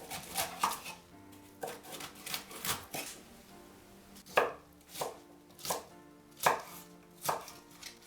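Knife chopping cabbage leaves into chunks: irregular sharp strokes, about one a second, the strongest ones in the second half.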